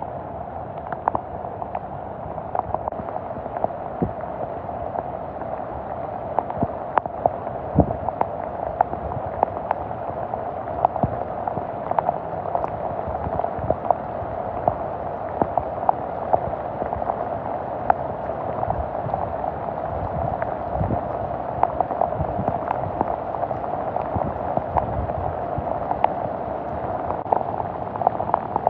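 Heavy rain pouring onto floodwater covering a street: a steady hiss full of sharp, irregular ticks from drops splashing close by.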